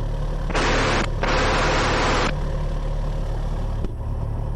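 Cessna 172's four-cylinder Lycoming IO-360 engine running steadily at low power, heard as a drone inside the cabin. Two bursts of hiss cut in and out in the first half.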